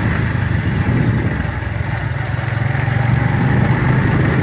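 Motorcycle engine running steadily under way, its low hum strengthening slightly past the middle, with road and wind noise.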